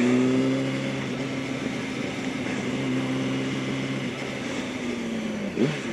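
Yamaha R1 inline-four engine running at a steady pitch under light throttle, with wind noise over it; the pitch sags slightly and briefly rises near the end.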